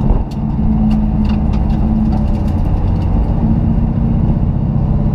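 Race car's engine running steadily under way, heard inside a stripped, roll-caged cabin along with road noise and scattered small clicks and rattles. The level dips briefly just after the start.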